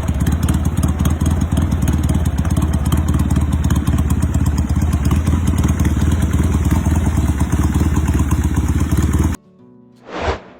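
Motorcycle engine running loudly and steadily, cutting off abruptly about nine seconds in. A short whoosh follows near the end.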